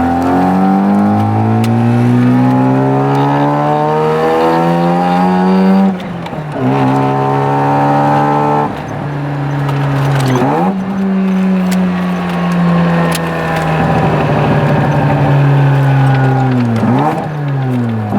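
Car engine pulled hard through the gears. Its pitch climbs steadily and falls sharply at each shift, about six and ten seconds in. It then holds a steadier note and dips quickly twice near the end.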